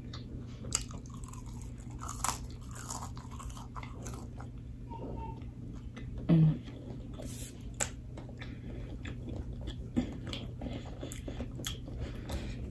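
Close-miked chewing of crispy seasoned French fries: crunching and wet mouth clicks, over a steady low hum. A brief low hum of the voice, the loudest sound, about six seconds in.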